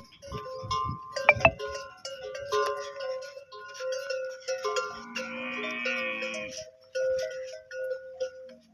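Bells on grazing livestock clinking and ringing irregularly, with one drawn-out animal bleat about five seconds in.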